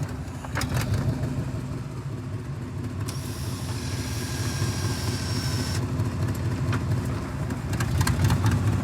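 Vehicle engine running steadily under load while trying to drive a stuck car out of snow, a low rumble that slowly grows louder. A faint high whine joins it from about three to six seconds in.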